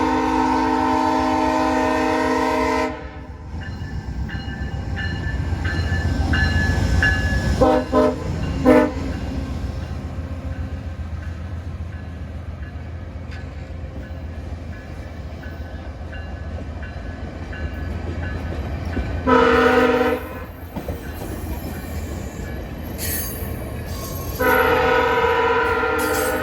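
VIA Rail passenger train 645 passing, its locomotive's multi-note air horn sounding. A long blast cuts off about three seconds in, two short blasts come near eight seconds, and two more blasts sound later, around twenty seconds and from about twenty-four seconds. The low rumble of the train going by runs between the blasts.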